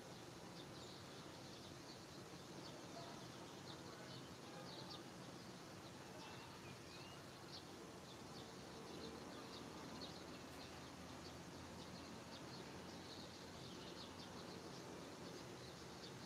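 Faint birds chirping: scattered short, high chirps over a low, steady background hiss.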